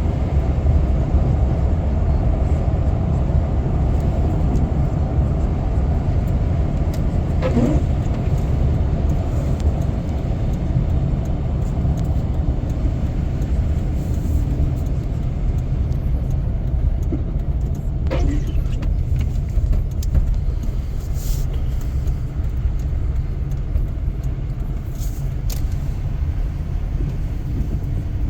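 Steady low rumble of a car driving, heard from inside the cabin: engine and tyre noise on the road, with a couple of brief higher sounds about a third and two-thirds of the way through.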